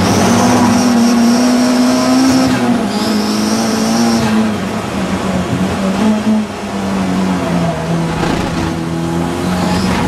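Audi TT race car's engine running hard under racing, its pitch climbing, dropping and climbing again. A high squeal rides over it through the first four seconds, with a short break near three seconds.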